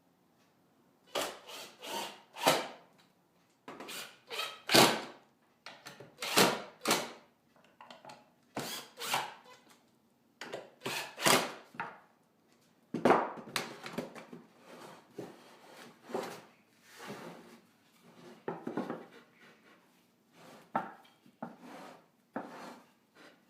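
Plywood pieces and hand tools being handled during birdhouse assembly: a run of short, irregular wooden knocks and scrapes, with quieter rubbing between them.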